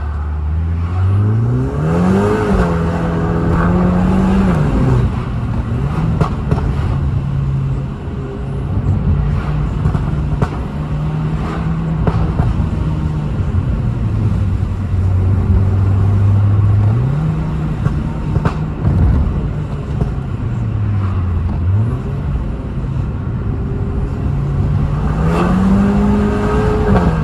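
Alfa Romeo Giulietta's turbocharged 1.4 MultiAir four-cylinder with a stage 2 tune and the TCT dual-clutch gearbox, driven hard: the engine note climbs under throttle and drops abruptly at each quick upshift, then holds steadier while cruising. Sharp crackles and pops from the exhaust come through now and then, from the crackle map on the overrun.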